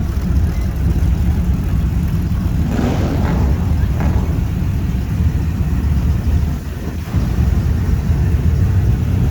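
A car engine running with a steady low rumble, with a brief hiss about three seconds in.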